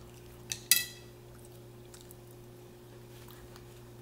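Person eating a spoonful of taco filling: a sharp click with a brief ring about a second in, then quiet chewing over a steady low hum.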